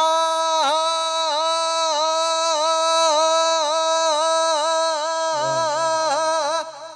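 Male kirtan singer holding one long high sung note with quick, regular dips in pitch as ornament. About five seconds in a lower accompanying tone joins beneath it, and the note breaks off just before the next phrase.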